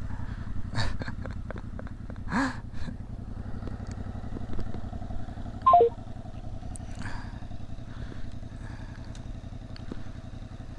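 Yamaha Tracer 7 motorcycle engine idling steadily. About six seconds in, the helmet's Bluetooth intercom gives a short descending three-note beep.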